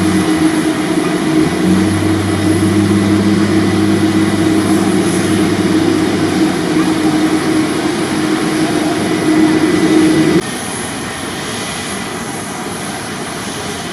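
Jet airliner engines running loud, a rushing noise with a steady low hum under it. About ten seconds in the sound drops suddenly to a quieter, even engine noise.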